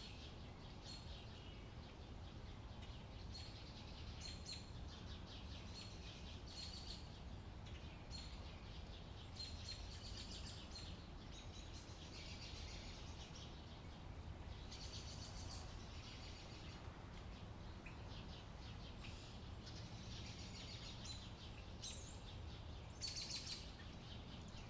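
Songbirds singing, with short chirping phrases repeated every second or so, over a faint, steady low background rumble.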